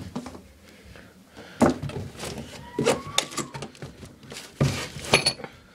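A Hoover front-loading washing machine being handled: about five separate knocks and clunks, roughly a second apart, like a detergent drawer and door being shut.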